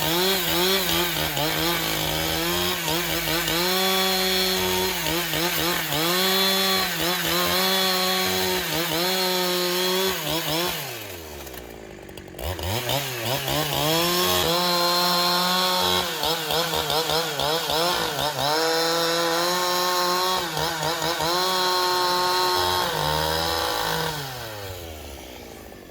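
Chainsaw engine cutting wood at full throttle, its pitch dipping and recovering as the chain bites. About 11 s in it slows almost to idle, then revs back up a second later and cuts again. Near the end it winds down.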